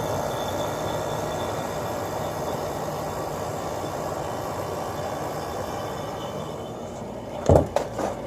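Sharp 8500 BTU window air conditioner running: a steady rush of fan air with a low hum. A sharp knock comes near the end, followed by a smaller one.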